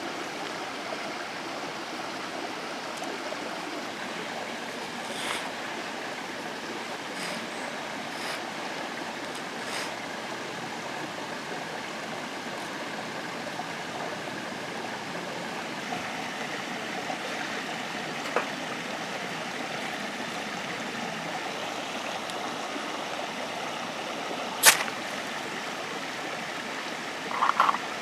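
Steady rain falling, an even hiss of noise with a few faint ticks. Near the end a single sharp click stands out as the loudest sound, followed shortly by a brief rattle.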